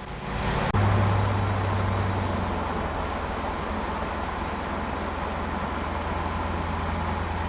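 2001 Jaguar XK8's AJ27 V8 exhaust droning steadily at a cruise, with tyre and road noise. A click comes just under a second in, after which the low engine note is loudest and then eases to a steady level.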